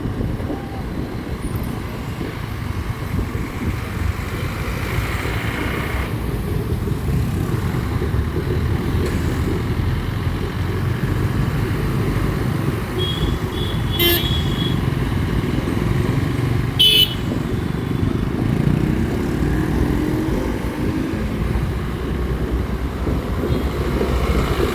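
Motorcycle engine running on the move, with steady wind and road rumble. A vehicle horn toots briefly about halfway through and again about three seconds later.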